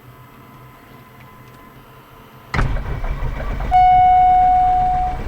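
Light aircraft cockpit: a loud low rumble comes on suddenly about halfway through, and about a second later a steady horn-like warning tone sounds for about a second and a half, fading away at its end.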